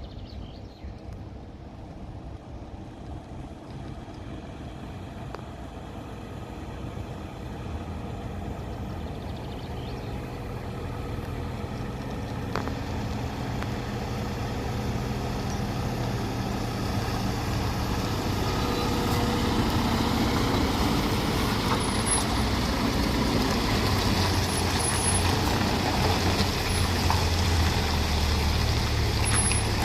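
Heavy truck's diesel engine and tyres, growing steadily louder over about twenty seconds as the truck approaches, then holding loud, with a few short high-pitched whistles near the end.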